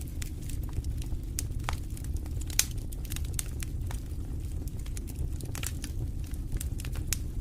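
Wood fire in a fireplace crackling, with irregular sharp pops over a steady low rumble of the flames; one pop stands out louder about two and a half seconds in.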